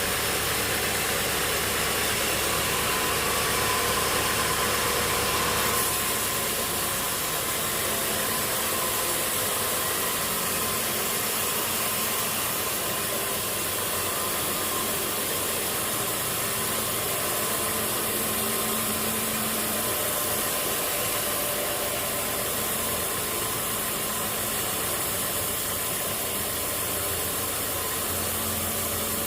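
A sawmill's engine running steadily under a constant hiss. About six seconds in, the sound shifts: the low rumble drops away and the hiss brightens.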